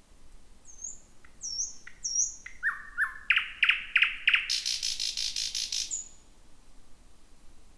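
Thrush nightingale singing one song phrase. It opens with thin, high upward-flicked notes and dry clicks, moves into a few loud lower strokes, and builds to a fast, harsh rattle that cuts off suddenly about six seconds in.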